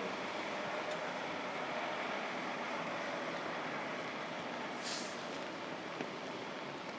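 Steady hiss of rain mixed with city traffic noise, with a short sharp hiss about five seconds in.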